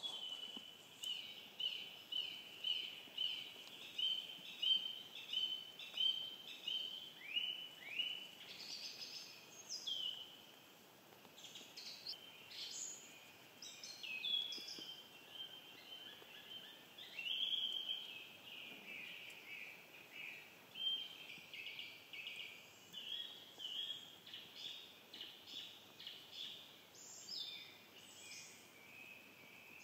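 Woodland birdsong: a bird repeats a short, high, falling note about twice a second for the first several seconds, then a mix of varied chirps and phrases from several birds.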